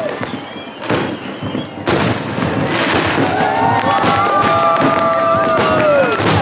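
Fireworks display: shells bursting in a run of sharp bangs, with several long whistling tones held together from about halfway in that drop away near the end.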